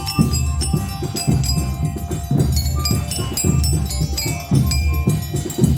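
A band playing an instrumental medley: held melody notes over a steady, heavy low beat, with bright bell-like percussion notes ringing above.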